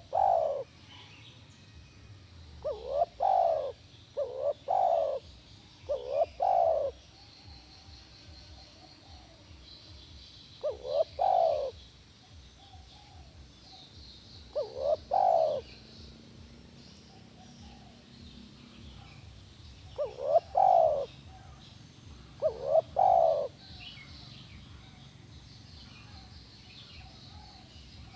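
Spotted dove cooing: short phrases of two or three quick coos, repeated about every few seconds, the last one a little before the end. Faint chirping from small birds runs underneath.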